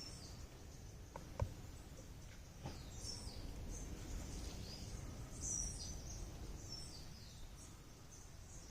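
Small birds chirping: short, high notes repeated throughout, over a low steady rumble. A single sharp click about one and a half seconds in, and a fainter one about a second later.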